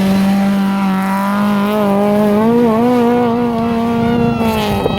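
A 350 cc rally quad's engine held at high, steady revs, which the spectator thinks may be a two-stroke, giving it a different note from the other quads. The pitch wavers slightly about halfway and drops a little near the end.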